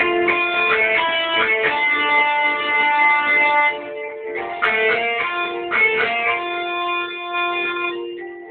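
Guitar playing an instrumental melody of plucked single notes over held notes, easing off briefly about four seconds in and fading near the end.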